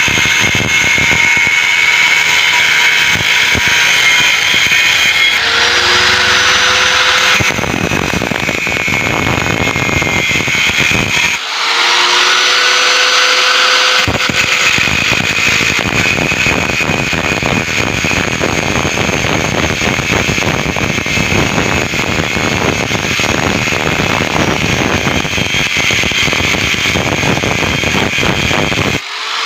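Angle grinder cutting through the steel shell of a refrigerator compressor along its seam, a continuous loud grinding rasp. Twice, about six and twelve seconds in, the sound briefly changes for a couple of seconds.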